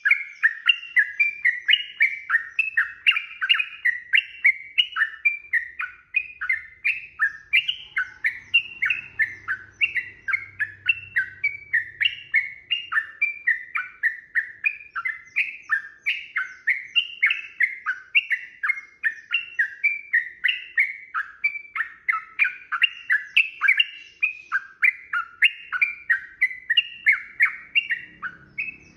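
Yellow-vented bulbul (trucukan) singing a long, unbroken run of quick bubbly whistled notes, about three a second. This is the rapid, continuous 'ropel' song that keepers prize.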